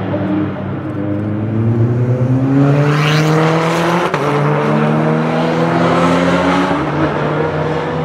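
A high-performance car engine accelerating hard through the gears, its pitch climbing steadily, with an upshift about four seconds in and another about seven seconds in.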